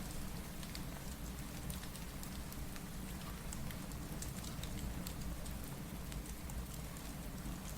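Steady rain mixed with a crackling fireplace: an even hiss with a low rumble, and scattered sharp pops and ticks.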